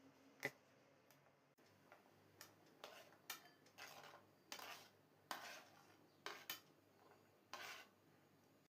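Faint kitchen utensil sounds: one sharp click, then a run of short scraping strokes about half a second to a second apart, as food is worked on with cutlery.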